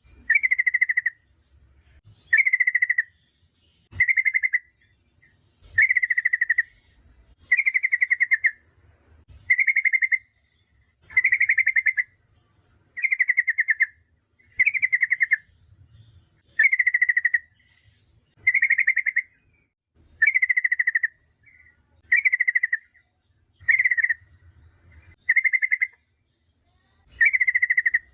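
Yellow-vented bulbul (trucukan) calling: a short burst of rapid, bubbly notes, repeated steadily about every second and a half to two seconds.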